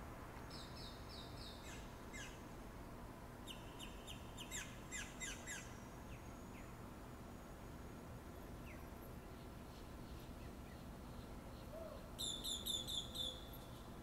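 Wild birds calling at sunrise: short bursts of quick repeated high chirps, the loudest bout about twelve seconds in, over a faint steady low hum.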